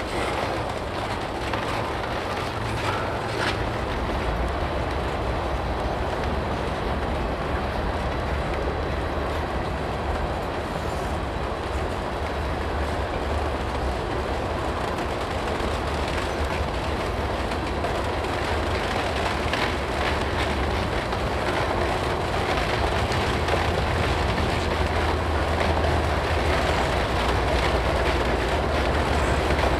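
Freight tank cars rolling slowly past, wheels clicking over rail joints, with a Canadian Pacific GE ES44AC locomotive's diesel engine growing louder toward the end as it draws near.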